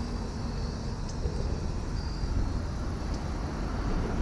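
Outdoor ambience: a steady low rumble with faint insect chirps now and then.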